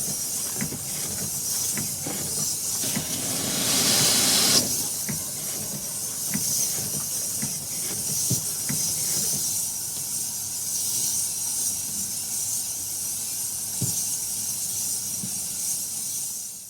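A running engine: a steady high hiss over irregular low knocks, with a louder rush of hiss for about a second and a half around four seconds in.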